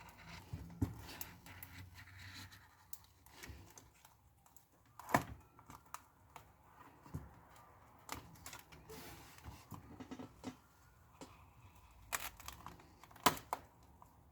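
Pry tool clicking and scraping against the cracked glass of an iPad screen as it is worked loose: scattered sharp ticks and faint crackling, with one louder click about five seconds in and two more near the end.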